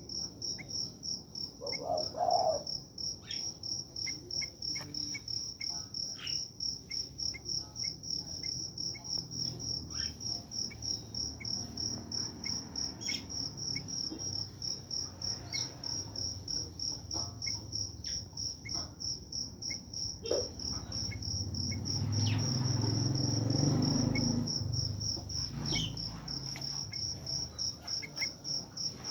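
Insect, cricket-like, trilling steadily in a high pulsed chirp a few times a second, with short bird chirps now and then. A low rumble swells and fades about three-quarters of the way through.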